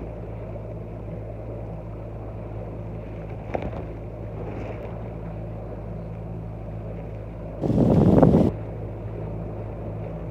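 Yamaha outboard motor running steadily with a low, even hum. About eight seconds in, a gust of wind buffets the microphone for under a second and is the loudest thing heard.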